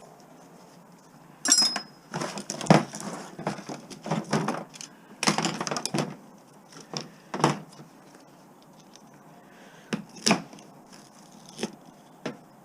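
Pieces of scrap metal being handled and knocked together: irregular clanks and rattles. One strike about a second and a half in rings briefly.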